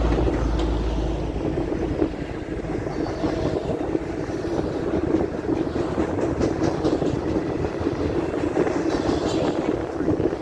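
Intermodal freight train rolling past: a steady rumble and clatter of steel wheels on rail.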